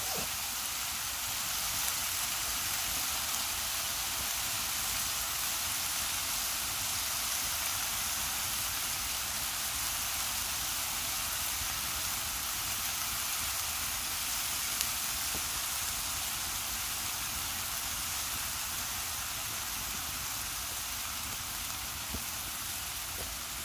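Chinese pork sizzling in a small frying pan over a wood fire, a steady hiss.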